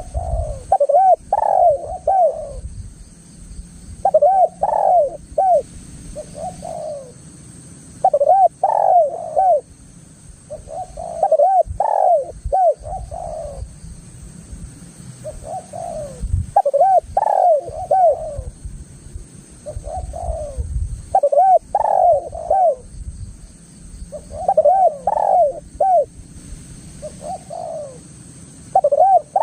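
Spotted dove (tekukur) cooing: loud phrases of several low, rolling coos, repeated about every three to four seconds.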